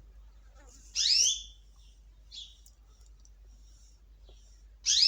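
Canary giving two loud, sharp calls about four seconds apart, each falling steeply in pitch, with a fainter call between them.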